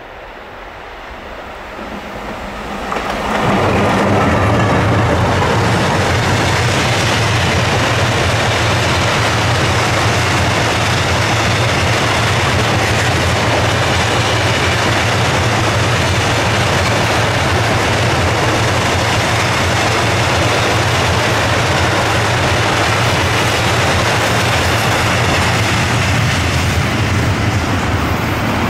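A double-headed freight train, an HŽ class 1141 ASEA electric locomotive and a Siemens Vectron, approaching louder and passing about three seconds in. It is followed by a long string of open freight wagons rolling by with steady wheel-on-rail noise and clickety-clack.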